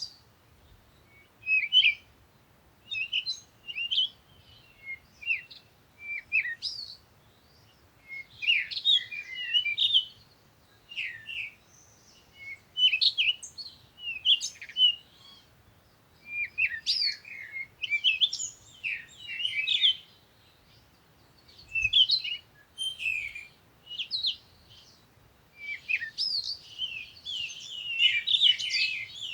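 Songbirds singing and chirping: short, quick phrases of high chirps repeated every second or two, sometimes overlapping.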